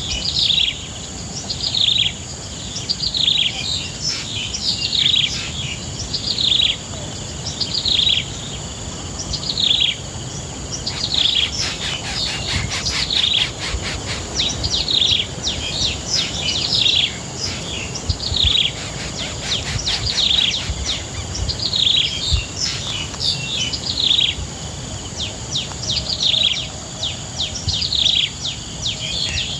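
Bird chirping: short, high, falling chirps repeated about once a second, coming faster in the middle, over a steady high-pitched whine.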